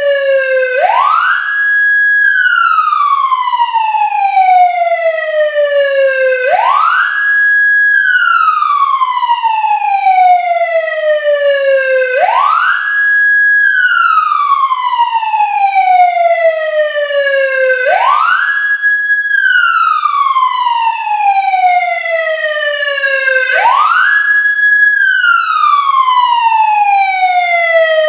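Whelen 295SLSA1 electronic siren sounding its wail tone through two 100-watt speakers. Each cycle climbs quickly in about a second, holds at the top briefly, then slides slowly down over about four seconds, repeating roughly every six seconds.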